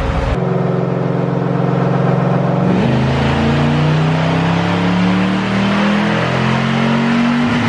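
Supercharged Toyota truck engine making a dyno pull. It runs at a steady speed, then from about three seconds in climbs steadily in pitch under load, and drops away right at the end.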